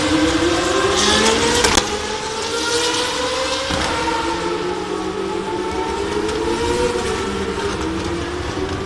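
Several car engines revving and accelerating, their pitch rising and falling in overlapping sweeps, with a brief knock about two seconds in.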